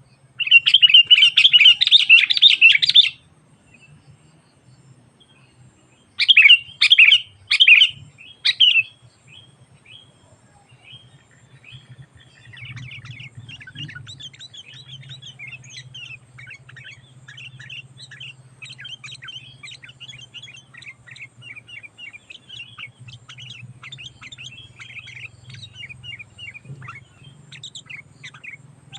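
Sooty-headed bulbul calling in full voice: a loud, rapid chattering for about three seconds, several short loud bursts a few seconds later, then steady fainter twittering through the rest. A faint low hum sits underneath.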